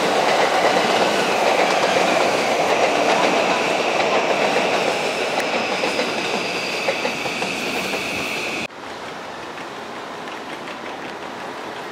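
Electric commuter train running through the station, wheels clattering over rail joints, with a high whine that falls slightly in pitch. The sound drops suddenly about nine seconds in to a quieter rumble.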